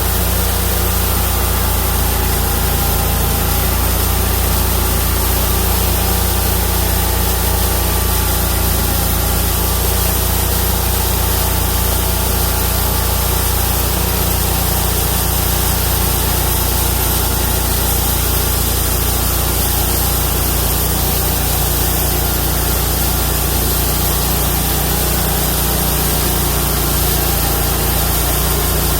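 Homemade bandsaw mill driven by a 31 hp engine, running steadily while its carbide-tipped blade saws through a Chinese toon log.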